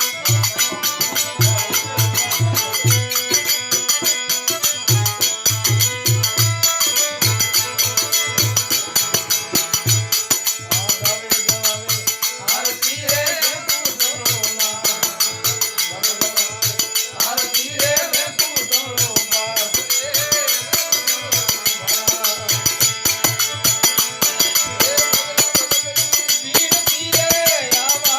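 Devotional aarti music with fast, steady jingling percussion over a pulsing drum beat. A wavering melody line comes in about twelve seconds in.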